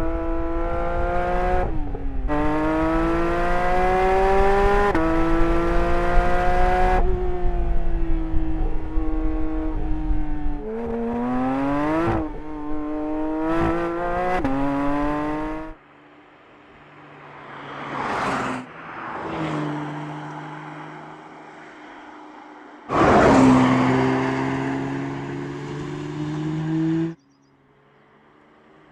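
Porsche 911 GT3 (992) with its naturally aspirated 4.0-litre flat-six revving high under hard acceleration, its pitch climbing and dropping back at a series of quick upshifts. About 16 s in it falls away, then swells and fades twice as it passes. It comes back loud about 23 s in and cuts off suddenly a few seconds before the end.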